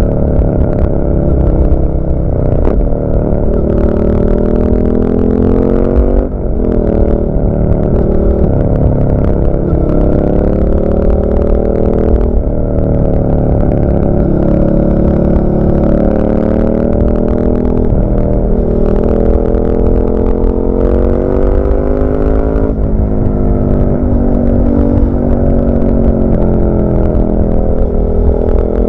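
Suzuki SV650's V-twin engine through an SC-Project carbon oval silencer with its dB-killer fitted, heard riding along. The revs rise and fall, with sudden breaks at gear changes about five times.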